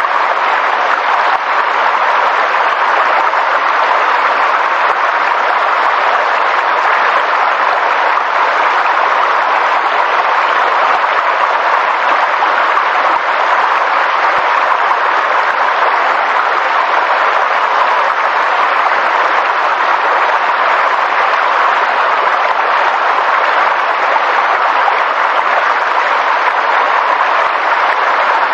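Steady, dense hiss of rushing water or heavy rain, unbroken and even, with no individual drops or splashes standing out.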